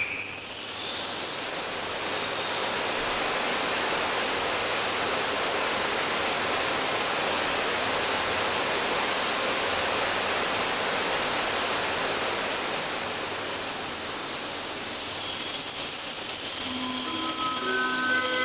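A limited express train running through the railway tunnel past an underground station, heard from the platform-level waiting room: a very loud, steady rushing noise of air and rail sound, opened by a rising whistle. Near the end a high whistle and several steady tones build up over the noise.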